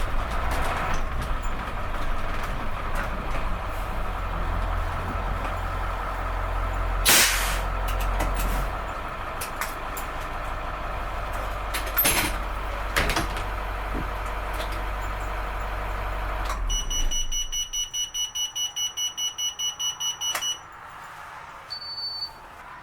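International T444E V8 turbo-diesel in a 1995 Wayne bus running, with a few brief loud noises, until it is shut off about three-quarters of the way in. A rapid electronic warning beep, about four pulses a second, follows for about three seconds, then one short beep.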